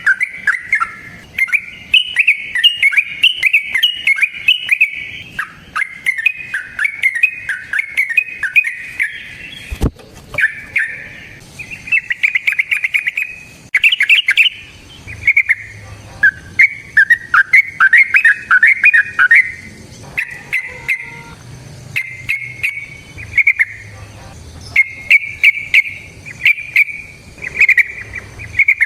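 Yellow-vented bulbul (trucukan, merbah cerukcuk) singing its long bubbly song. Phrases of rapid warbling notes follow one another with short breaks.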